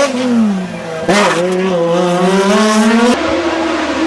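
Hillclimb racing car engine under hard use: the revs fall, a sharp crack comes just after a second in, then the revs climb again. Near the end the sound changes abruptly to a steadier, lower engine note.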